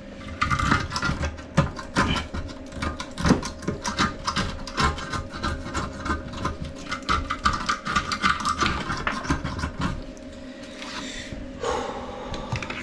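Rapid repeated scraping and rubbing strokes as grime and old silicone are cleaned off around a toilet pan. The strokes ease off about ten seconds in.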